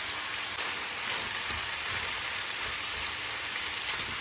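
Meat, onion and carrots sizzling as they fry in oil in a heavy pot: a steady, even hiss.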